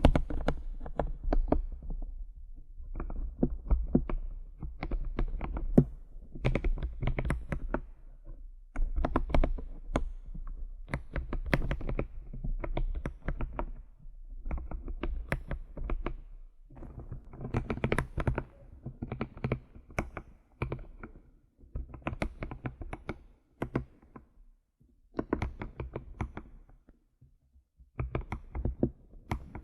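Computer keyboard being tapped in quick runs of keystrokes, each run a second or two long with short pauses between, and a longer pause near the end.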